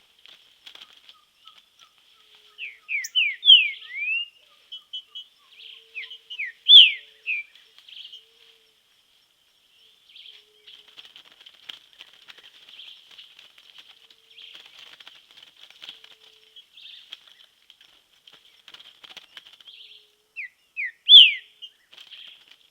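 Green-winged saltator (trinca-ferro) singing: phrases of quick, loud, down-slurred whistled notes, about three seconds in, again near seven seconds, and near the end. A steady high hiss-like chatter runs underneath.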